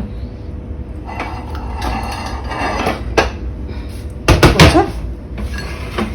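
Pots and dishes being handled: clattering and scraping, then a quick run of loud knocks a little past the middle.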